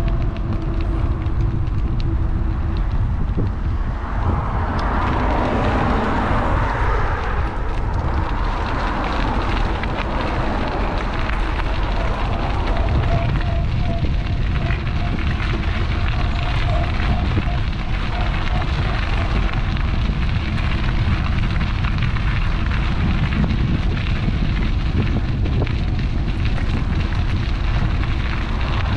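Wind rumbling on an action camera's microphone while riding an electric bike, with a faint steady whine underneath. A swell of hissing noise comes about four to eight seconds in.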